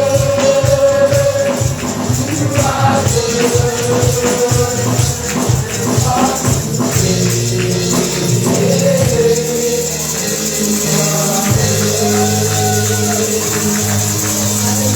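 Live gospel praise music: singing held over a steady tambourine rhythm, with a sustained low accompaniment.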